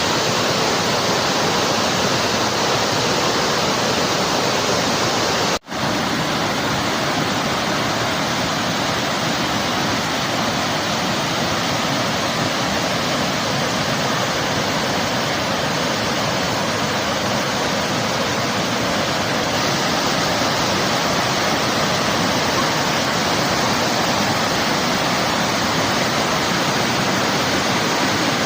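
Loud, steady rush of water pouring down a waterfall. The sound drops out for a split second about six seconds in.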